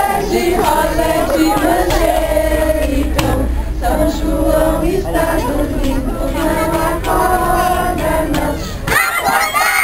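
A group of children and adults singing a Brazilian folk song together. Near the end the singing stops and the children break into shouting and cheering.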